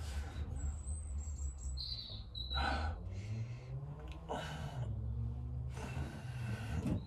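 Small birds chirping: a short high trill about a second in, then a couple of chirps, over a steady low hum and a few brief rustling noises.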